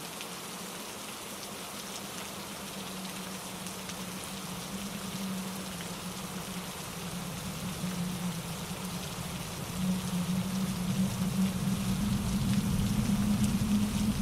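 Steady rain falling through trees, mixed with wind in the branches and the rush of a mountain stream over granite rocks. About ten seconds in, the sound swells with a deeper rumble.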